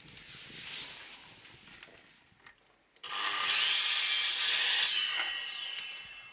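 Bamboo being scraped: a soft rub about a second in, then a loud scrape of about two seconds with a ringing squeal that fades out.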